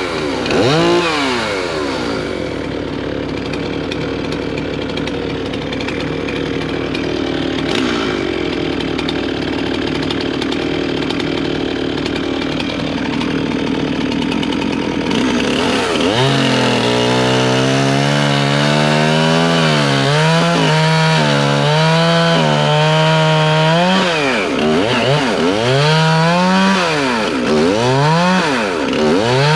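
Stihl MS311 two-stroke chainsaw running at high revs while cutting spruce logs. From about halfway on its pitch wavers, and several times drops and climbs back up as the throttle is eased and opened again.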